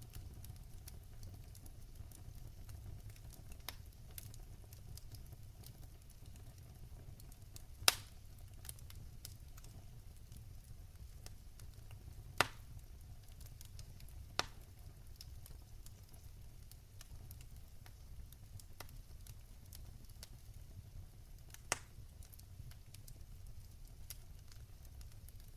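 Wood fire crackling in a fireplace: a low steady rumble of burning with scattered small ticks, and four sharp loud pops, the loudest about eight seconds in.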